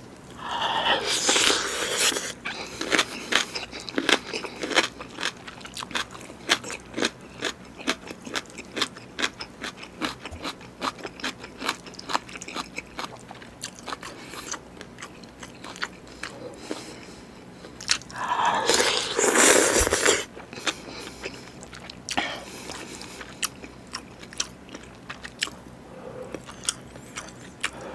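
Close-miked eating of beef bulgogi with rice and cubed radish kimchi (kkakdugi): crunching and chewing with many wet mouth clicks and smacks. Two louder stretches of about two seconds stand out, one about a second in, just after a spoonful with a piece of radish kimchi goes into the mouth, and another about two-thirds through.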